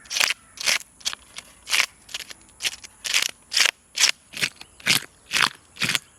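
Knife working over a whole parrot fish: a steady run of short, crunchy rasping strokes, about two a second.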